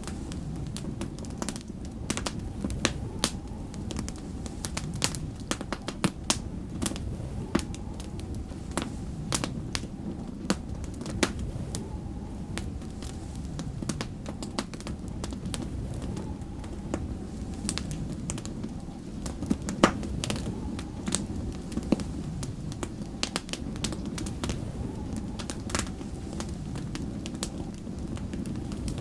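Wood fire crackling, with many sharp irregular pops and snaps over a steady low rumble of storm wind.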